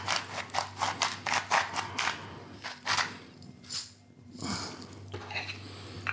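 Pink salt grinder being twisted over food, a quick run of gritty grinding clicks, about five a second, that stops about two seconds in, followed by a few light handling sounds.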